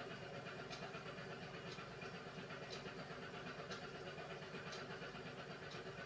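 Beko WMY81283LMB2 washing machine running on a 30 °C hand wash cycle: a steady hum with a light click about once a second.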